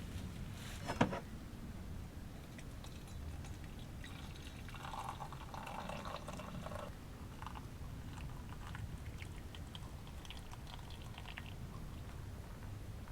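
Hot water poured into a mug for about two seconds to brew a coffee bag, after a single sharp knock about a second in, followed by a few light clinks.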